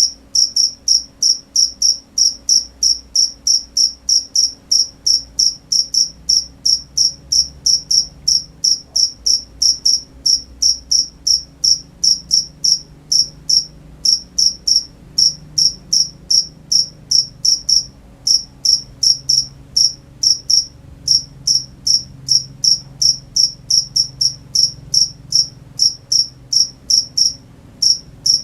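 A cricket chirping in a steady, even rhythm, about three short high chirps a second, with a few brief pauses.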